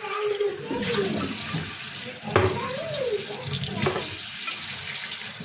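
Water running from a tap into a sink, with wavering voice-like sounds over it.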